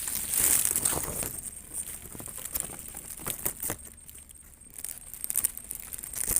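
Dry alang-alang grass rustling and crackling in irregular bursts as it is handled and pushed aside around a bird's nest. A high steady hiss fades out about a second in.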